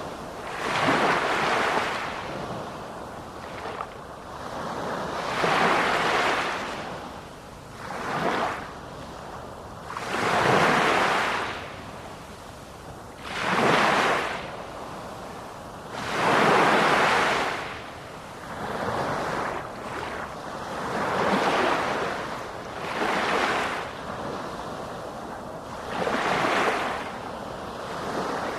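Sea waves breaking and washing in one after another, a hissing surge every two to three seconds that swells and fades.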